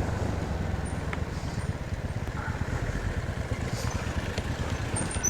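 Royal Enfield Bullet's single-cylinder engine running steadily while the motorcycle is ridden, a low, even rumble.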